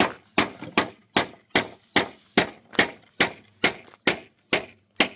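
Hammer striking nails into wooden timber in a steady run of about a dozen blows, roughly two and a half a second.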